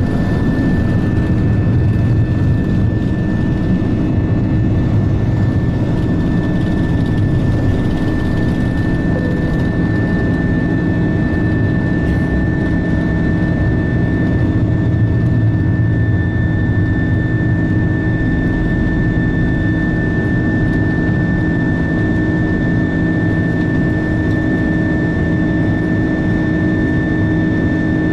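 Airbus A330-200's jet engines running at a steady power, heard from inside the cabin: a deep, even rumble with a few steady tones above it.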